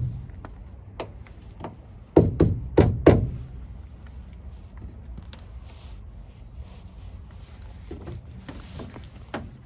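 Four heavy knocks in quick succession, about three a second, starting about two seconds in, followed by quieter scattered clunks and handling noise.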